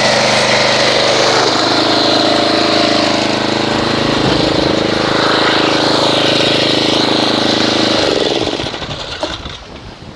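Pressure washer running, its foam cannon spraying soap foam: a steady motor drone under a spray hiss, which stops near the end.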